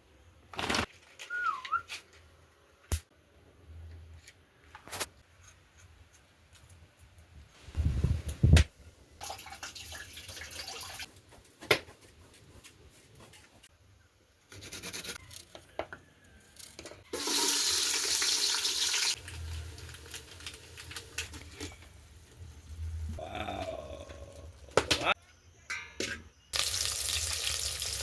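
Cooking sounds: scattered knocks and clatter, a heavy thud, and hissing bursts, then about 26 seconds in a steady loud sizzle of food frying in hot oil starts.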